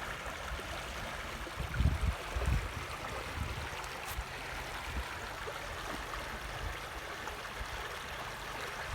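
River water flowing steadily, a continuous rushing wash, with a few brief low rumbles about two seconds in.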